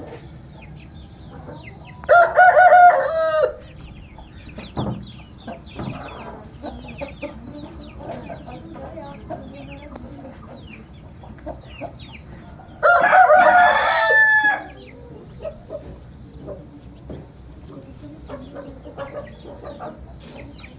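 Aseel rooster crowing twice, each crow about a second and a half long, one about two seconds in and the other about thirteen seconds in, over steady soft clucking and chirping from the flock.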